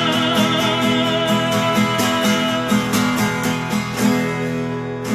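Live solo performance of a Korean protest song: the singer's held last note, with vibrato, dies away in the first second over a steady strummed guitar accompaniment, which carries on alone as a short interlude before the next verse.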